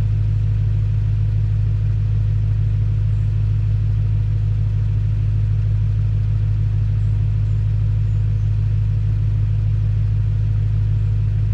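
BMW E92 M3's V8 engine idling steadily: an even, unchanging low hum.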